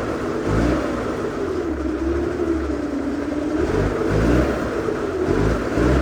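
An engine running steadily, its pitch slowly wavering up and down, with a throbbing low rumble underneath.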